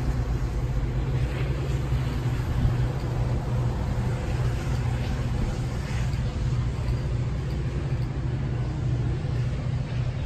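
Train's diesel engine running with a steady low rumble, easing slightly near the end.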